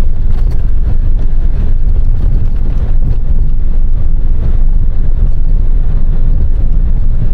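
Engine and road noise inside a moving truck's cab: a steady, loud low rumble.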